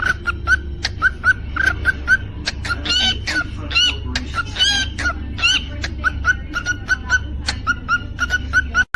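Cockatiel chirping over and over, short rising chirps about three a second, with a few louder whistled song notes around the middle. A steady low hum runs underneath.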